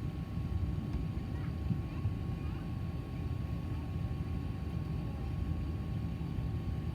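Steady low rumble of cabin noise inside an Airbus A380 on the ground, with a faint steady whine over it.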